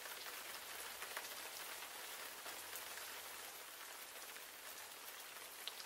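Steady rain falling: an even, soft hiss with a few faint drop ticks.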